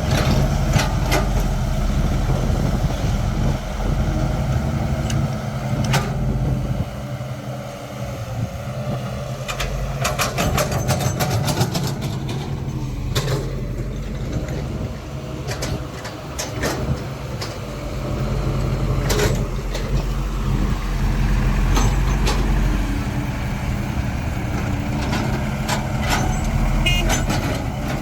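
Caterpillar 312 excavator's diesel engine running and rising and easing under load as it loads soil onto a truck, with scattered knocks and clatter, heaviest about ten seconds in and near the end.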